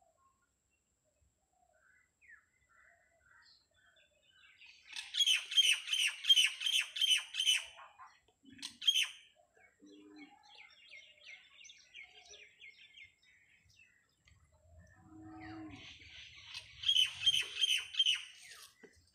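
Bird chirping: two bouts of high, evenly repeated chirps, about three a second, each lasting two to three seconds, with fainter chirping between them.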